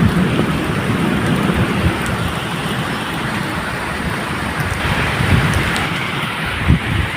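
Medium rain falling steadily, with a low rumble of thunder underneath and a heavier low thump near the end.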